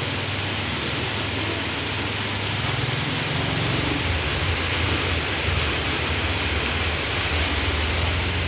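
Steady hiss of rain with a low vehicle rumble underneath that grows louder from about three seconds in.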